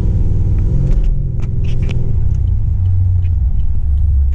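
Car engine and road rumble while driving; the engine note drops and settles into a lower steady drone about three seconds in.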